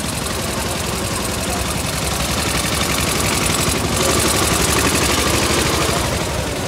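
Veteran car engine of about a hundred years old running at idle with a rapid, even knocking beat, getting louder about four seconds in.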